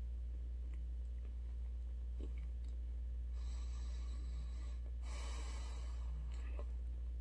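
Mouth sounds of a person chewing pizza crust, with two breaths through the nose about three and five seconds in, over a steady low hum.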